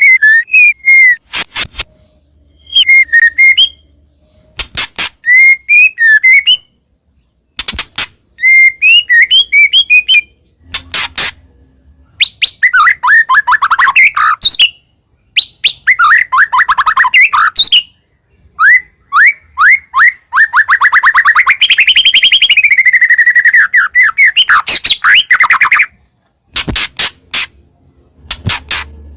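White-rumped shama singing loudly. Short whistled phrases and sharp clicks come with pauses between them at first. It then moves into rapid trills and a long, fast, unbroken run of notes, and ends with a few more clicks.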